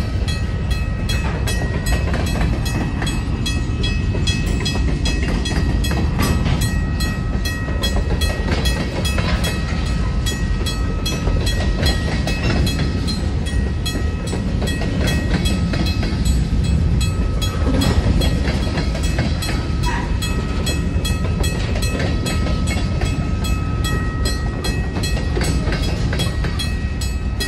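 Freight train of covered hopper cars rolling past at a grade crossing: a steady, loud low rumble with wheels clicking over the rail joints, and a faint high tone that comes and goes.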